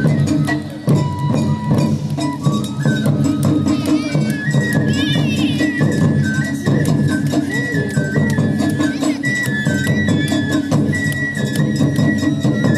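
Japanese festival music: a high flute playing a stepping melody over percussion with many sharp clicks and knocks.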